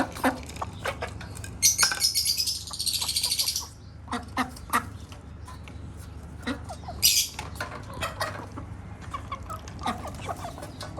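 Domestic birds on a rooftop: a loud burst of wing flapping lasting about two seconds, starting near two seconds in, and a shorter flap about seven seconds in, amid scattered short chirps and clucks from hens and other birds.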